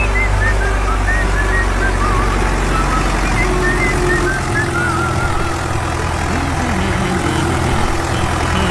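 Engine of an earthmoving machine running steadily, with high chirps over it in the first half.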